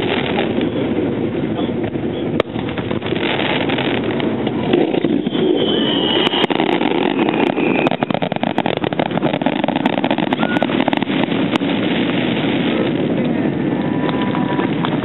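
Aerial fireworks shells bursting at a distance: a dense run of sharp crackling that thickens a few seconds in, over a steady crowd murmur.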